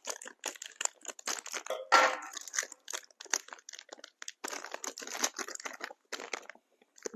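Snack packet crinkling and crackling irregularly as it is torn open and handled, with the loudest crackle about two seconds in.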